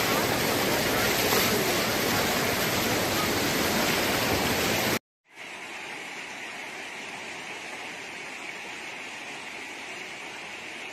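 Floodwater rushing loudly in a steady torrent, cut off suddenly about five seconds in, followed by a quieter steady hiss.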